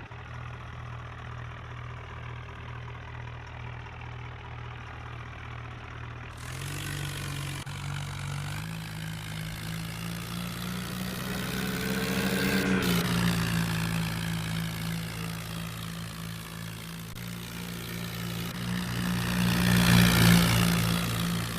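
Tractor engine running steadily. Its note steps up about six seconds in, and it grows louder twice, loudest near the end.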